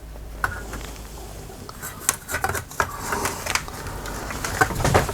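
Irregular clicks and knocks of laminator parts being handled and forced back into place, over a low steady hum.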